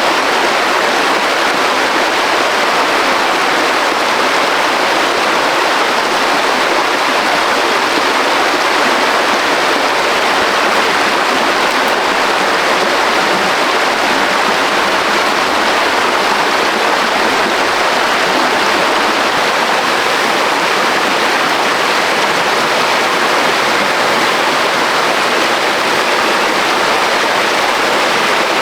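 Waterfall rapids rushing, a loud and steady noise of falling water.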